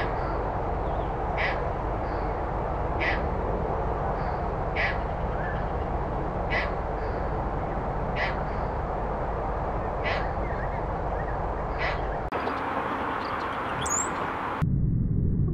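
A bird's short call repeated about every second and a half to two seconds over a steady, loud, noisy background. About twelve seconds in the sound changes abruptly to a different recording, and it changes again near the end.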